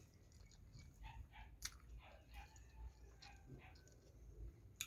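Faint chewing with small wet mouth clicks: a person eating a mouthful of food.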